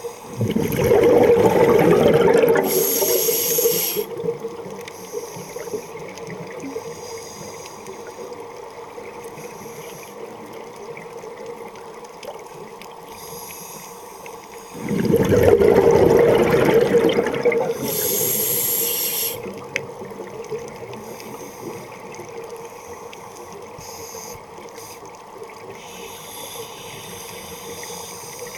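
Muffled underwater sound with a steady hum, broken twice by long surges of bubbling and gurgling water, each lasting about three seconds and ending in a brief hiss.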